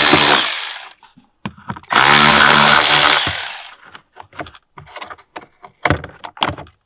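Electric impact driver with a 10 mm socket spinning out plastic screws in two bursts, the first ending about a second in and the second lasting nearly two seconds, followed by several short clicks and knocks of handling.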